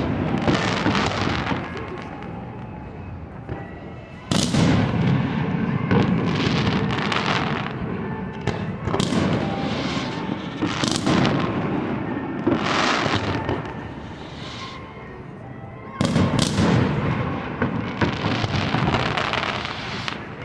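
Fireworks display: a string of booming shell bursts, each trailing off into crackling, with sharp loud bursts about four seconds in and again about sixteen seconds in.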